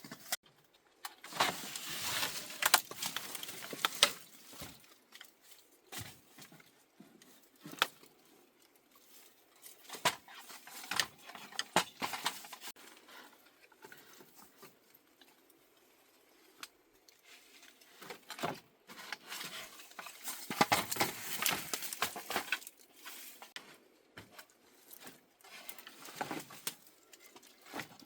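Bamboo and wood being handled during building work: spells of rustling and scraping with sharp clicks and knocks, with quieter gaps between them.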